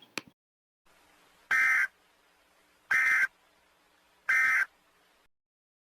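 Emergency Alert System end-of-message signal: three short, identical bursts of buzzy digital data tones, about a second and a half apart, marking the close of the alert.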